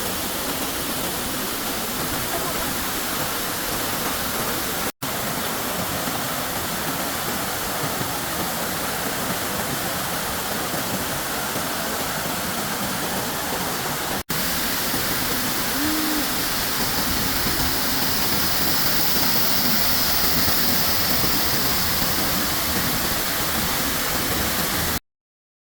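Waterfall pouring: a steady rush of falling water. It drops out for an instant twice and cuts off suddenly near the end.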